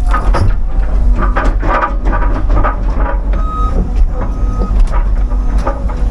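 CAT 323 excavator's diesel engine running under load, with repeated sharp cracking and snapping of wood as pines and their roots are pushed and dug out. A few short high beeps sound, the clearest about three and a half seconds in.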